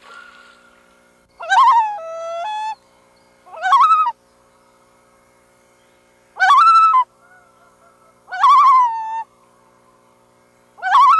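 Loons calling: five short, loud calls, each sweeping up and then holding a pitch, some of them quavering, with pauses of a second or two between them.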